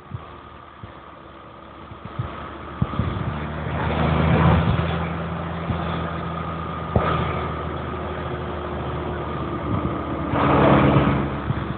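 Diesel tractor engines running at low speed, swelling louder twice as tractors go by, with a few sharp knocks.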